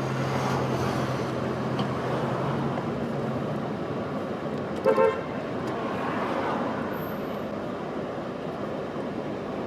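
Street traffic noise with a car horn tooting twice in quick succession, briefly, about five seconds in.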